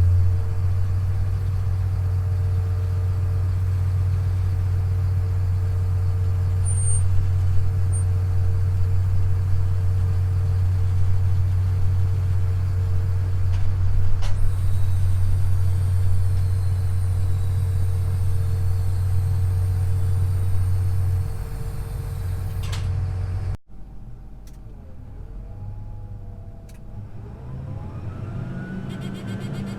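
John Deere cotton picker's engine running steadily on the road, a heavy low drone with a steady whine over it. About 23 seconds in it breaks off abruptly, giving way to a quieter machine sound with rising whines near the end.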